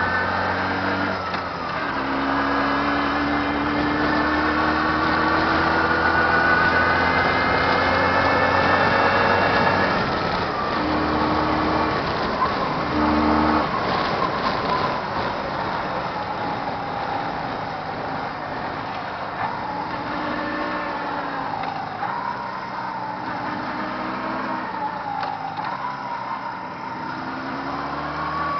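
Jawa 638 two-stroke twin motorcycle engine under way: it climbs steadily in pitch for about ten seconds, drops off twice around gear changes, then runs on at a lower, varying speed. The engine is freshly rebuilt and being run in.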